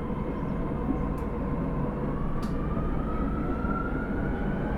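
Osaka Metro 30000 series subway train running: a steady rumble of wheels on rail with the whine of its Hitachi SiC-VVVF traction drive, which rises gently in pitch in the second half as the train gathers speed. Two faint ticks sound in the first half.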